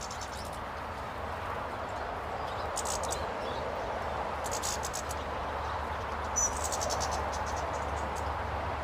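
Small birds giving short, high, rapid trills three times, with a clear high note about six seconds in, over a steady background hiss and low hum.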